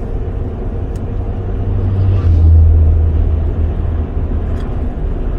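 Car interior noise while driving: a steady low road and engine rumble that swells to its loudest a little over two seconds in, then eases back.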